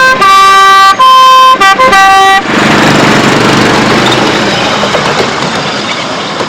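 A miniature railway locomotive's multi-tone horn sounds a chord: two longer blasts, two quick toots, then a final blast. After that the train's rumble runs on, slowly fading.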